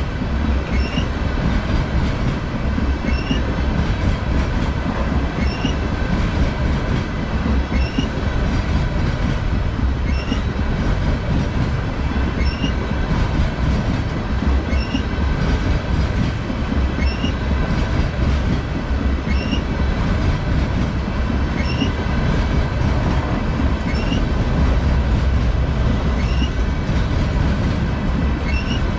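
Freight train of steel tank cars rolling past close by: a continuous rumble of wheels on rail, with a faint high chirp repeating about once a second.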